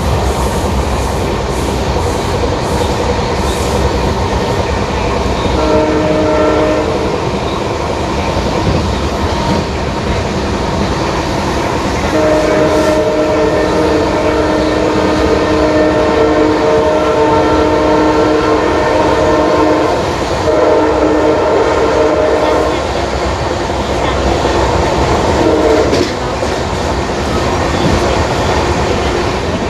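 Passenger train running with steady wheel-on-rail noise, while the hauling EMD WDP4D diesel locomotive sounds its multi-note horn several times: a short blast about six seconds in, a long blast of about eight seconds, then two shorter ones.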